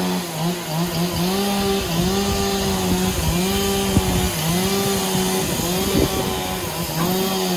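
Motor-driven saw cutting through a log. Its steady whine sags briefly in pitch every second or so as the blade loads up in the wood, then recovers.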